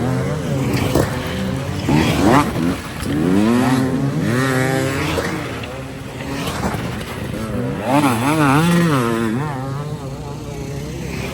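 Motocross dirt-bike engines revving, their pitch repeatedly climbing and falling as the throttle is worked, with quick wavering stretches about halfway through and again near the end.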